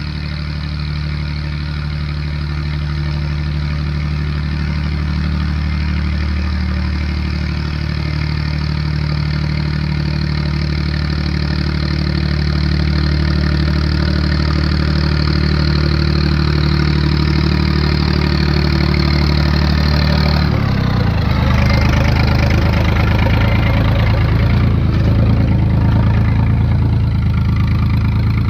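Tractor engine running steadily; about two-thirds of the way through, its note changes abruptly to a lower pitch and then holds steady again.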